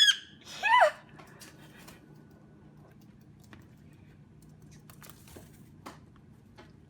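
A Goffin's cockatoo gives two short, loud squawks in the first second, the second one falling in pitch. After that there are only faint scattered clicks and taps.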